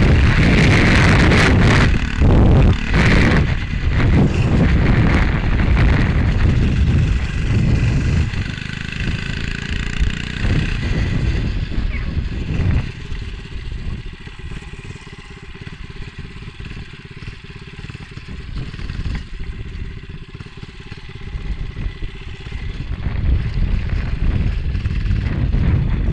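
Motovox MBX11 minibike engine running, under heavy wind buffeting on a helmet-cam microphone. The wind noise eases after about eight seconds, leaving the engine's steady note plainer, and builds again near the end.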